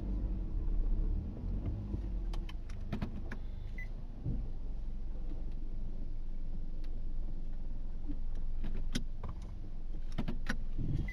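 Inside a car's cabin: the car's engine and drivetrain make a steady low rumble as it struggles for traction, stuck on slippery packed snow. A few sharp clicks sound now and then.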